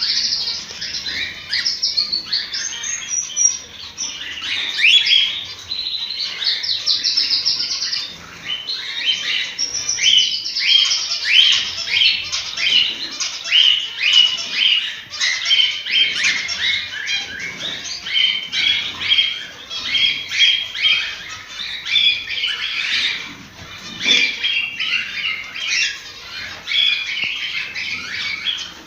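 Cockatiels chirping and whistling without a break, several calls overlapping at once in rapid short notes.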